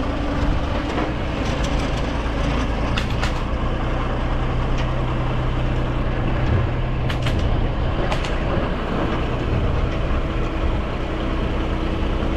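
An engine running steadily with a low hum, with a few sharp clicks or knocks about three seconds in and again around seven and eight seconds in.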